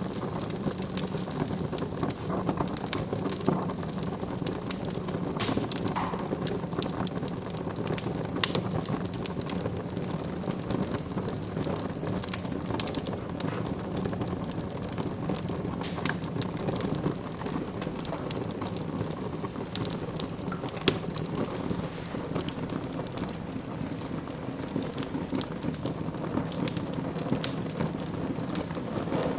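Wood fire burning in a fireplace, crackling continuously with many scattered sharp pops over a steady hiss.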